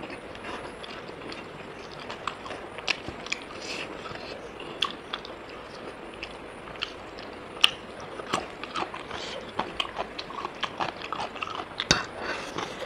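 A person chewing rice and pork close to the microphone, with irregular small wet clicks from the mouth throughout.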